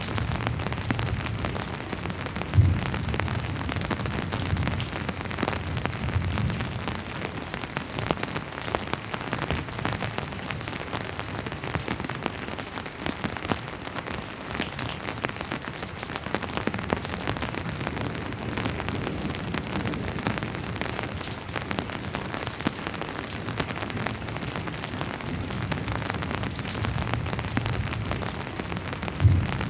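Steady rainfall, an even hiss thick with the ticks of single drops. Low rumbles of distant thunder rise near the start and again near the end, each with a sudden low thump, about two and a half seconds in and just before the end.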